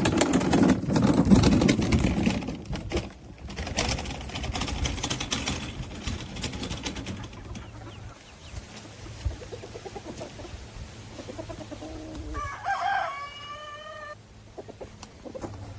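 Loud rustling and scraping noise for the first several seconds, then a rooster crows once, a call of about a second and a half near the end.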